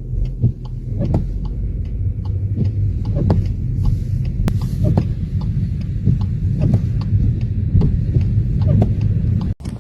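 A vehicle's engine running with a low, steady rumble, with many light, irregular clicks over it.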